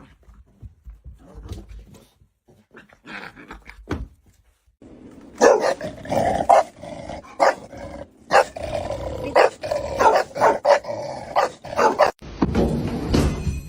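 A dog barking repeatedly with some growling, starting loud about five seconds in; only faint knocks and rustles before that.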